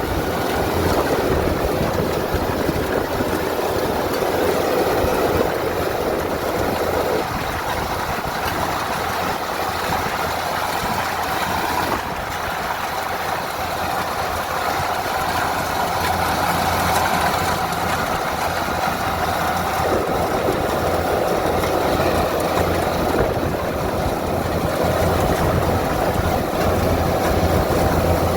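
Kubota DC70 combine harvester's diesel engine running steadily under load, a continuous low hum with a dense mechanical rumble over it.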